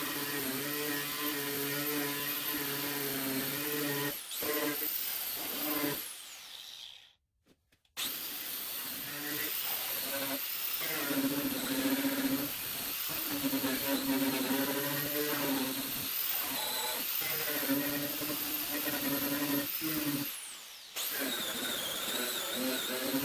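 Handheld power tool spinning a wire wheel or abrasive bristle disc against the truck's metal, stripping paint and rust, its whine wavering as it bites. It stops about six seconds in and starts up again a couple of seconds later.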